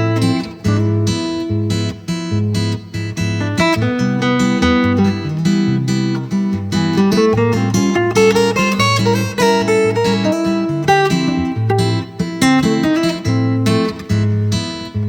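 Acoustic guitar played through a Line 6 HX Stomp XL with a classical-guitar impulse response, meant to make it sound like a nylon-string guitar. A looped chord pattern with a repeating bass line plays under a single-note solo. To the player it comes out okay but a bit thin in the top end.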